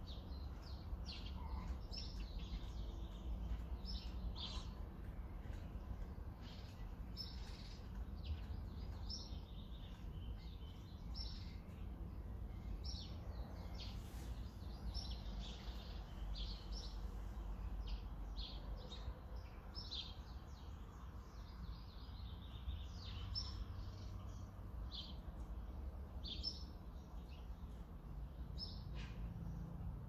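Songbirds chirping, many short high calls coming every second or so, over a steady low background rumble.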